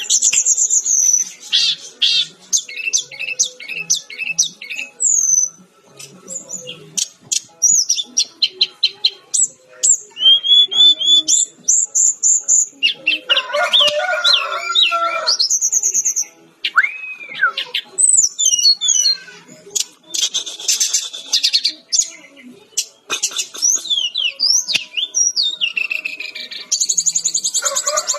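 Fulvous-chested jungle flycatcher (Cyornis olivacea) singing continuously: a varied run of fast trills, rapid repeated notes and gliding whistles, phrase after phrase with only short gaps.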